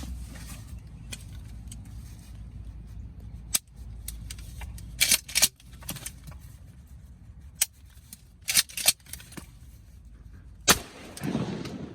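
A shotgun fired three times at a turkey, about three and a half seconds apart, the last shot loudest and followed by a short echo. Between the shots there is a brief metallic clatter as the action is worked. Wind rumbles on the microphone until the last shot.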